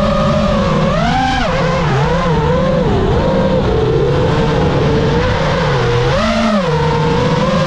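5-inch freestyle FPV quadcopter's brushless motors and propellers whining as heard from the onboard GoPro, the pitch wavering with throttle and rising sharply on throttle punches about a second in and again near the end.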